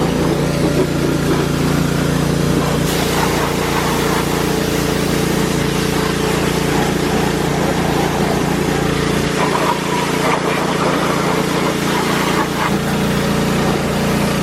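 An engine or motor running steadily, with a constant low hum and no change in speed.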